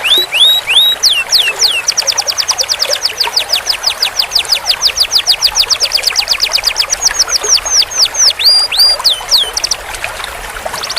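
Domestic canary singing a long roll: a fast, even trill of rapidly repeated notes held for several seconds, mixed with slower downward-sliding notes, with a brief pause near the end.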